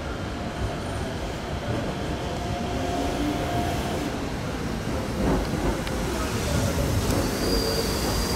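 Keikyu electric train running into a station, with a steady rolling rumble; a thin high-pitched wheel squeal starts near the end.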